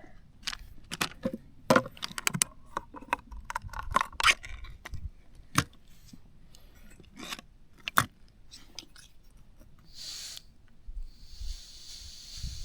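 Metal clicks and rattles of a portable gas canister stove being handled and set up, then a short hiss about ten seconds in and a steady gas hiss from the burner as it is lit.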